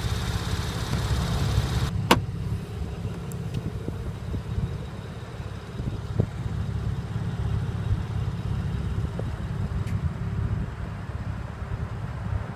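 Porsche 911 Carrera 4S flat-six engine idling with a steady low rumble. A single sharp click comes about two seconds in, and a few faint ticks follow later.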